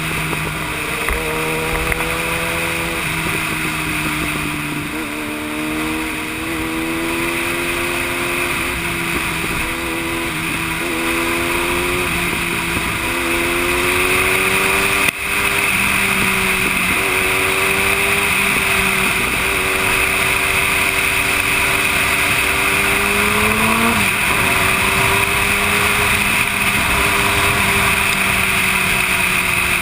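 Yamaha YZF-R1 inline-four sport bike engine running at road speed under steady wind noise. Its pitch drifts up and down with the throttle, with a short rise in revs that drops off near the end, and there is a sharp click about halfway through.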